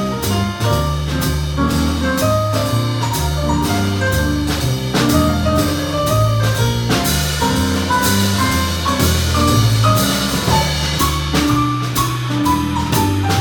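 A jazz band playing an instrumental chorus: a bass line moving note by note under a drum kit keeping time on the cymbals, with a melodic solo line of short notes on top. The cymbals get louder and brighter for a few seconds in the middle.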